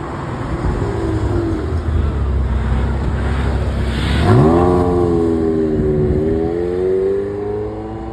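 Car engine rumbling low, then revved hard about four seconds in and held at high revs, the pitch dipping and climbing again before it falls away near the end.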